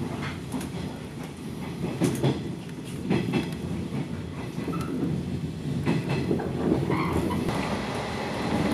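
Local electric train running, heard from inside the car: a steady rumble with the wheels clacking over rail joints and points, the clacks coming in quick pairs a few times.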